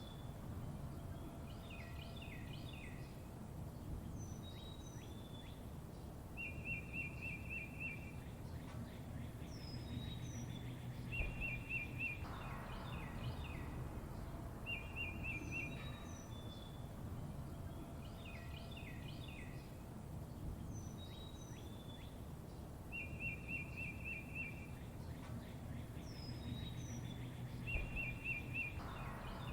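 Songbirds chirping and whistling, with a short high trill recurring every few seconds, over a steady low rushing background.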